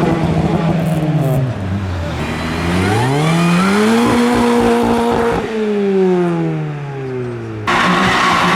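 A car engine revving up, holding high revs for about a second, then dropping in pitch as the car pulls away past the listener. Near the end the sound cuts abruptly to a steady, louder rush of noise.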